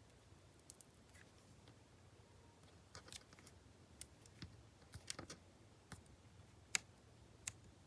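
Faint, scattered small clicks and taps from paper craft pieces and tools being handled on a desk, over near-silent room tone; the loudest tap comes near the end.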